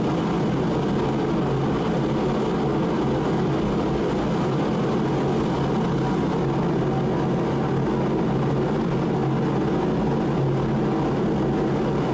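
Mr. Heater 60,000 BTU forced-air propane heater running steadily, its fan and burner making an even, unbroken rush.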